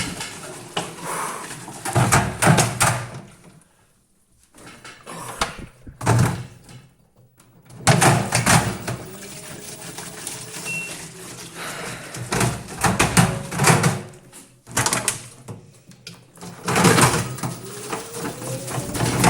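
LG washing machine with a 6-litre plastic bottle in the drum: irregular knocks and thuds over a low hum, broken by short quiet pauses.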